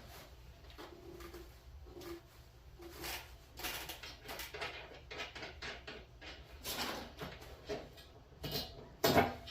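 Scattered rustles, clicks and light knocks of a lathe's shipping packaging being handled and pulled apart, with a louder knock near the end.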